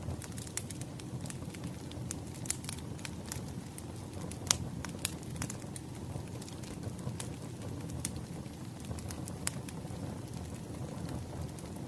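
Wood fire crackling: a steady low rumble of burning logs with irregular sharp pops, one louder pop about four and a half seconds in.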